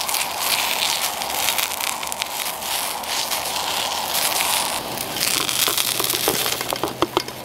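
Sliced potatoes and asparagus sizzling and crackling in a frying pan over a lit canister camp stove. From about five seconds in come a series of clicks and scrapes as the pan is lifted by its clip-on handle and the food is tipped into a bowl.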